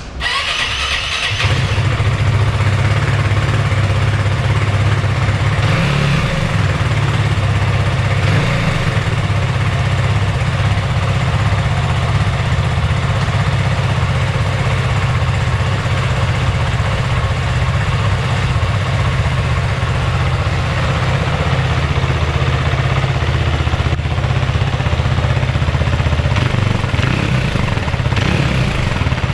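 FB Mondial HPS 300 motorcycle's single-cylinder engine through its stock exhaust. It starts in the first second or so, then idles steadily, with a few short blips of the throttle.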